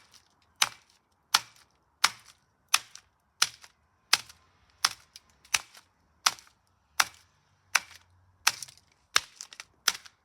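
Repeated hard strikes on a fire-damaged plastic DVD case, a sharp crack about every 0.7 seconds, some fourteen blows in a row, as the half-burnt case is smashed apart.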